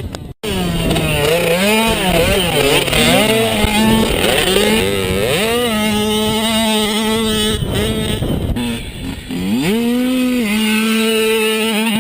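Small dirt-bike engines revving, their pitch climbing and dropping again and again with throttle and gear changes; in places two engines overlap. The sound cuts out for a moment just after the start.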